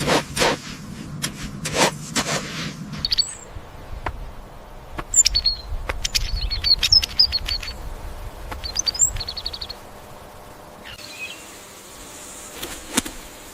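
Small birds chirping in short, high notes, with a quick trill near the end of the run. Knocks and rustling come first.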